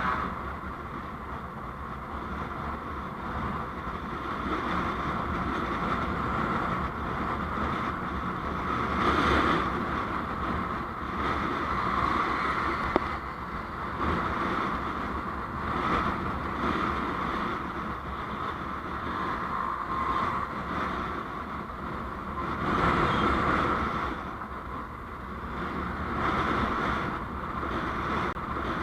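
Road noise from a vehicle on the move: steady engine and tyre noise mixed with wind on the microphone, swelling louder twice.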